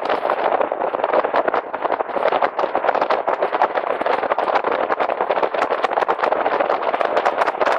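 Jet boat running at speed: a loud, steady rushing noise with rapid, irregular crackles of wind and water against the microphone.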